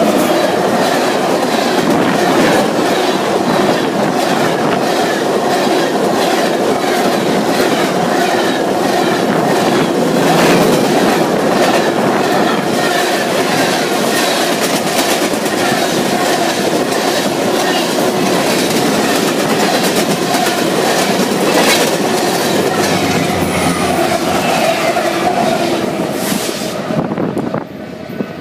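Freight train cars passing close by, steel wheels clattering over the rail joints in a steady, repeating clack over a loud rolling rush. About 27 seconds in it cuts off suddenly to a much quieter background.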